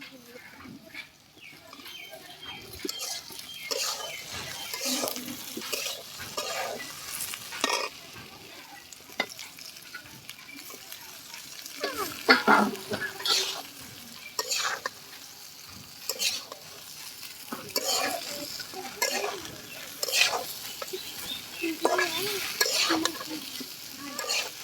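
Food frying in oil in a pan and being stirred: a steady sizzle, with irregular scraping strokes of the spoon against the pan about once a second.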